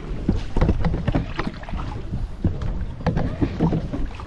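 Small paddle boat on the water: irregular splashes of the paddles and knocks against the hull, over a heavy wind rumble on the microphone.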